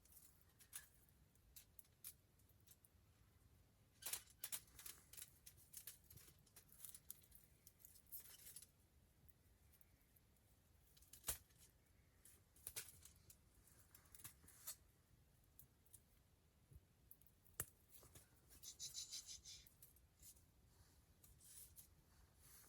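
Wood campfire crackling: irregular sharp pops and snaps, some in quick clusters, over a faint low rumble, with a brief high-pitched sound near the end.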